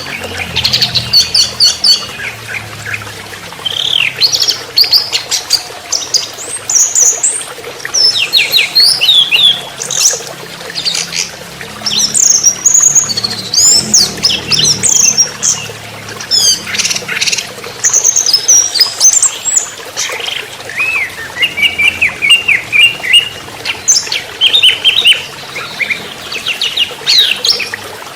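Juvenile orange-headed thrush (anis merah trotol) singing a fast, varied song of high chirps, whistles and short trills, one phrase after another with brief pauses.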